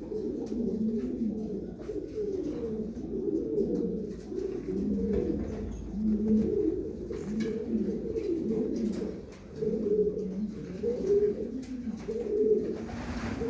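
Birds calling continuously: an unbroken run of low, wavering warbling calls.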